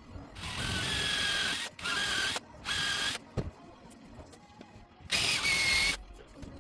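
A workshop tool run in four short bursts, each a loud hiss with a steady whine. Between the bursts come small clicks and knocks.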